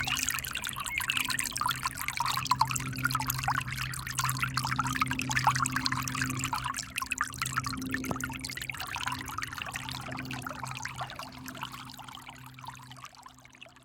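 River water running and splashing, a busy trickling and pouring sound, with a steady low hum beneath it; it fades out near the end.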